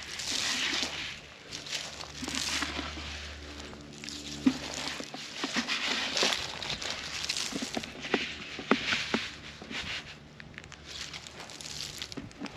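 Footsteps swishing through field grass in a slow, irregular rhythm, with scattered small clicks and crackles.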